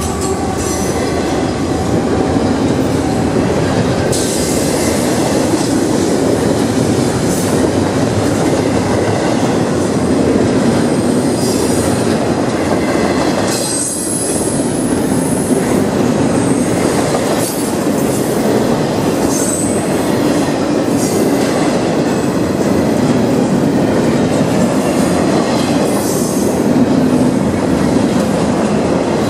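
CSX freight train's cars rolling past at speed: a steady loud rumble and clatter of steel wheels on the rails, with brief high wheel squeals now and then.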